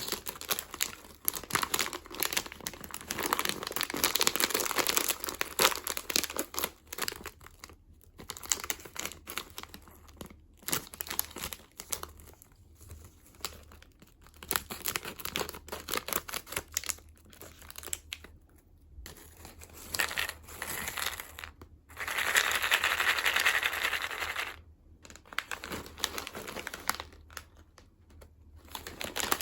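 Crinkly plastic snack packaging being handled and opened by hand, in irregular stretches of crinkling with short pauses. A longer, denser stretch of crinkling comes about three-quarters of the way through.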